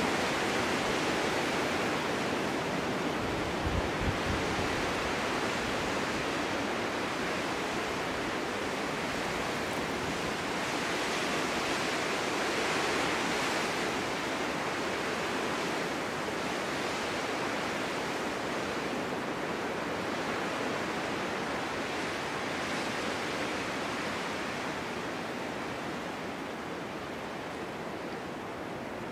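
Snowstorm wind blowing through a forest, a steady rushing that swells and eases gently, with a brief low buffet of wind on the microphone about four seconds in.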